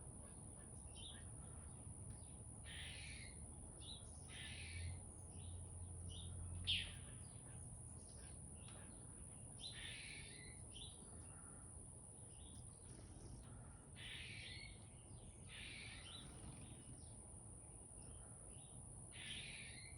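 A chickadee calling: short, harsh notes repeated every second or few, faint, with a steady high-pitched tone beneath.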